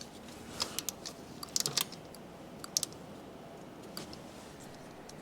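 Torque wrench ratcheting on an intake manifold bolt: short runs of sharp metallic clicks, a quick cluster about a second and a half in, then a few single clicks.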